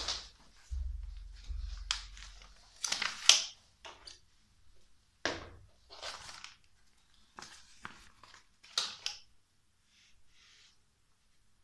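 A sheet of paper rustling and crinkling in several short bursts as Roomba robot-vacuum parts are handled and cleaned on it.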